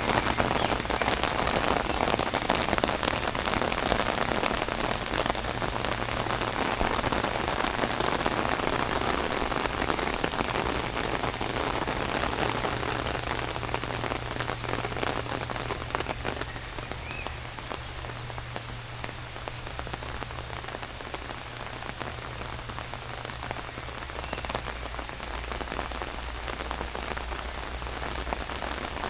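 Heavy rain pouring down as a steady, even hiss. It eases somewhat about halfway through.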